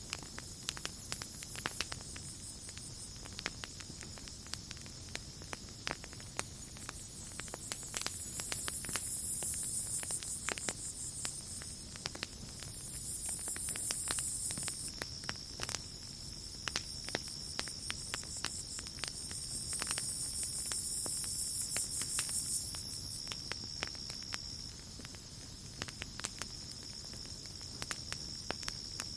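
Campfire crackling with irregular sharp pops, over a steady high trill of night insects. A higher insect buzz swells in and fades several times, each lasting two to three seconds.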